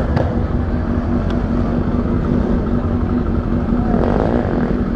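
Honda XRE300's single-cylinder engine running steadily at low revs, heard close up from the rider's seat.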